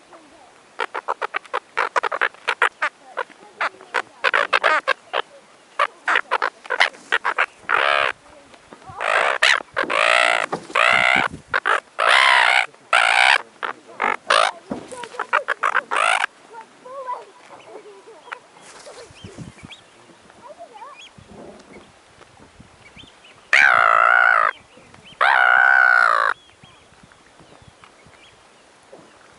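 Gulls calling while they feed: a fast run of short, harsh calls, then longer squawks, then two long, loud calls near the end.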